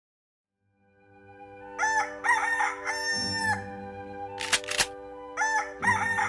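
A rooster crowing twice, a drawn-out crow about two seconds in and a shorter one near the end, over a steady musical drone that fades in. Two sharp clicks fall between the crows.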